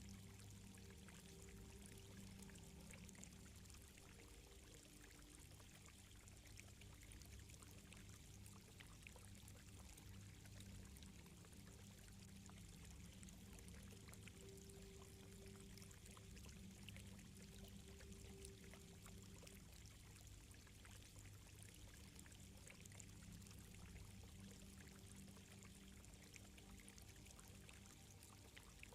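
Faint, steady ambient soundscape of flowing, trickling water over a low held drone.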